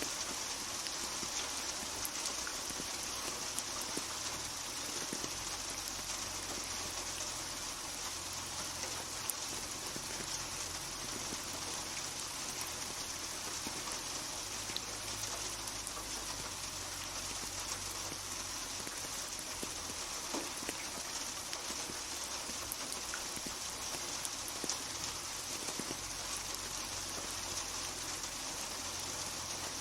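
Steady rain falling on a hard surface: an even hiss with scattered individual drop ticks.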